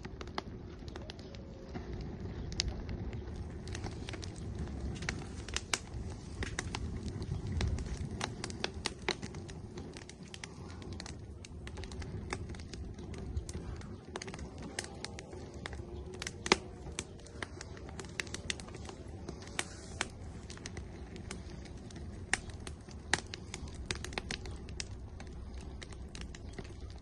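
Firewood burning in an outdoor grill, crackling with frequent sharp pops and snaps over a low, steady rush of flame; a few pops stand out louder, around the middle and two-thirds through.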